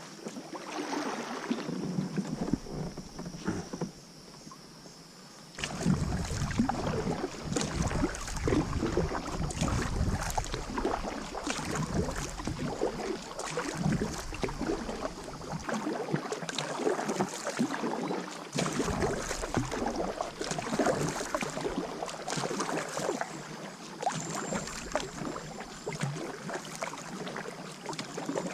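Water sloshing and splashing around a kayak, with frequent small clicks and knocks. It briefly goes quieter about four seconds in, and a low rumble of wind on the microphone comes and goes.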